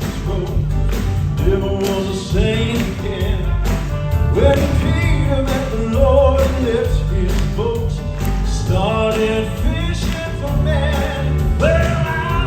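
Southern gospel male vocal quartet singing in harmony, live, backed by a band with drums and bass keeping a steady beat.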